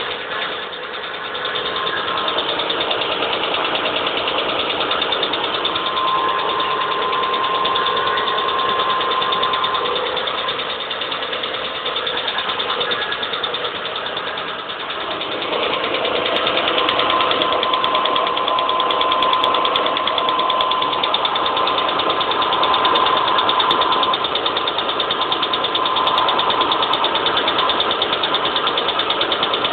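The 3.5-litre V6 of a 2003 Hyundai XG350 running steadily, with a continuous mechanical noise whose cause the owner cannot identify; it gets somewhat louder about halfway through.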